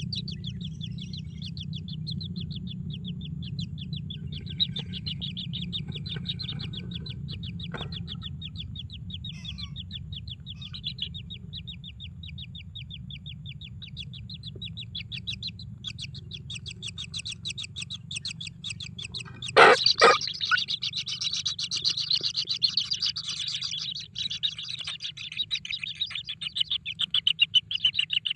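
Kingfisher chicks begging with a fast, steady train of high chirps over a low steady hum. Two loud, sharp sounds come about two-thirds of the way through, and the chirping grows louder after them.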